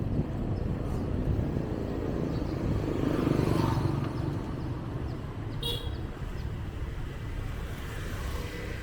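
Street traffic noise, swelling as a vehicle passes about three seconds in, with a brief high beep a little past the middle.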